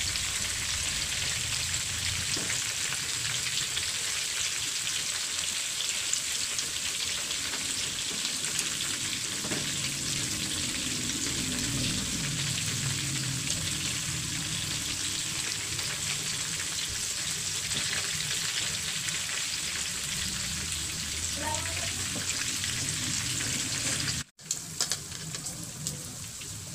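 Breaded shrimp frying in hot oil in a frying pan: a steady sizzle. About 24 seconds in, the sound cuts out for a moment and comes back quieter.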